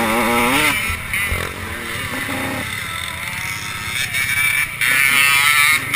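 Small two-stroke 85cc motocross bike engines revving, their pitch climbing and dropping repeatedly, louder again near the end.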